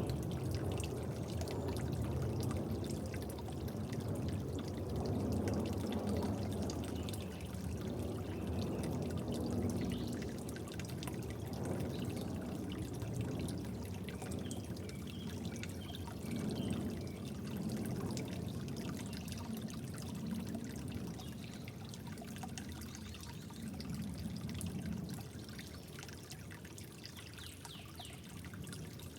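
Water trickling and pouring steadily, with a few faint drips. It grows quieter over the last few seconds.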